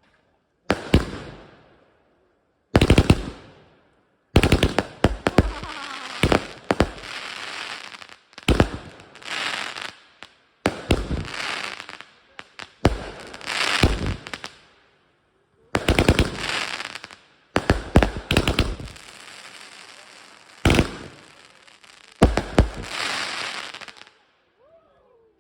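Fireworks going off in about ten rapid volleys, each a quick string of sharp bangs trailing into crackling that fades, with short gaps between volleys.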